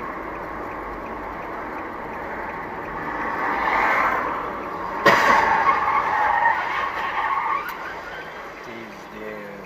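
Car tyres skidding, with one sudden crash impact about five seconds in, followed by noisy sliding that fades away.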